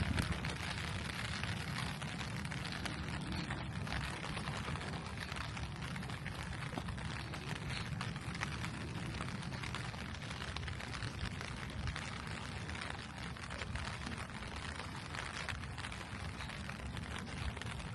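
Steady rain falling on a street, a dense patter of small drop ticks over a low, constant rumble.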